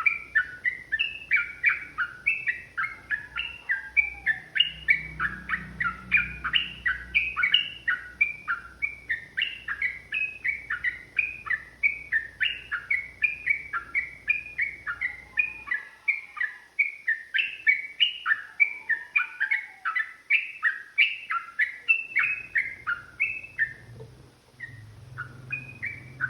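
Yellow-vented bulbul singing a long, fast run of short notes, about three a second, that thins out to a few scattered notes near the end.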